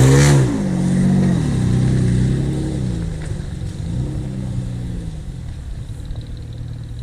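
Off-road SUV engine revving up and down several times as the vehicle drives off over rough forest ground, growing fainter as it moves away.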